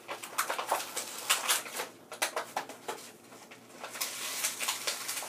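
Plastic toy packaging and small plastic pieces being handled: a run of crackles and clicks, busiest in the first two seconds or so and again near the end.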